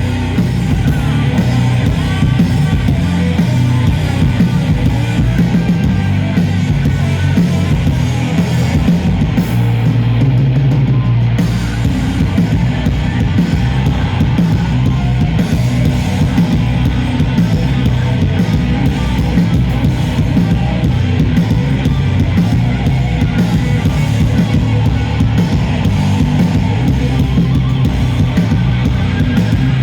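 Doom metal band playing live: heavily distorted guitars and bass over a drum kit, loud and continuous, with a thick low end.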